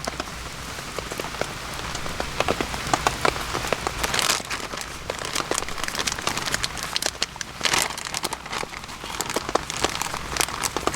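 Rain falling steadily, with many irregular sharp drops hitting a surface close by.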